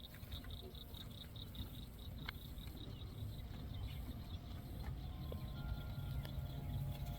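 Outdoor ambience: a steady low rumble under a fast, even run of high chirps that stops about three seconds in, then a few faint scattered calls.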